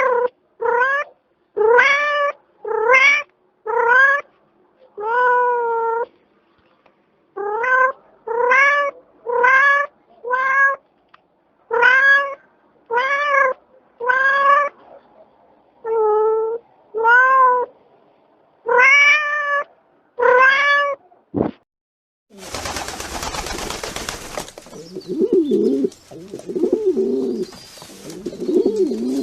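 A cat meowing over and over, a string of about seventeen short meows one to two seconds apart. Near the end, after a brief burst of noise, a pigeon cooing.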